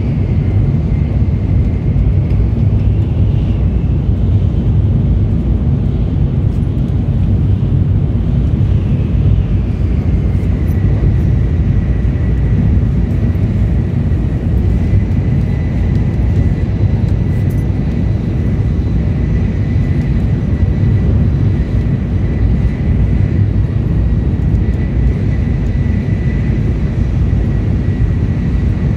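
Steady low rumble of a Shinkansen bullet train running at speed, heard from inside the passenger cabin, with a faint high whine that drops slightly in pitch about ten seconds in and then holds steady.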